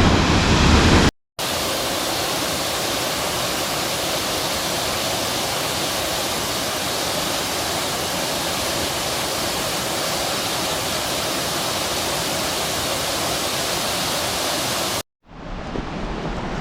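Waterfall pouring, an even rushing roar that holds steady. It breaks off abruptly twice at edit cuts, about a second in and near the end; after the second cut the rushing is quieter.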